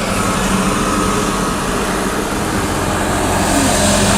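Heavy diesel road-paving machinery running steadily under a continuous hiss, growing a little louder near the end.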